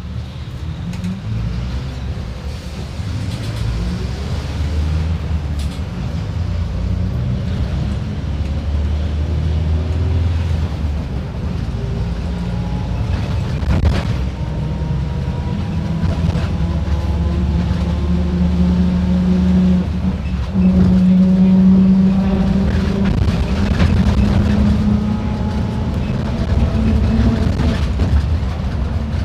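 Mercedes-Benz OF-1721 BlueTec 5 bus diesel engine pulling under load, its note and loudness climbing gradually. It drops briefly about twenty seconds in, then runs louder. A single sharp click sounds about fourteen seconds in.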